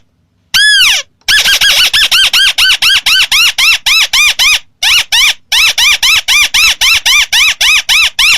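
Recorded lure call of the red-eyed crake known as burung tikusan, played loud. One long swooping note is followed by rapid runs of short rise-and-fall notes at about four to five a second, with a brief pause about halfway through.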